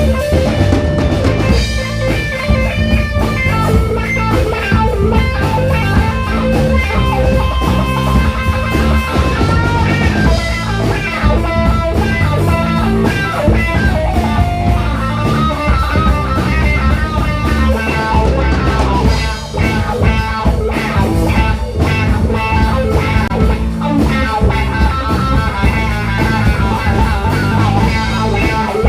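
Live rock band playing an instrumental passage of a funky song: electric guitar lines over bass and drum kit.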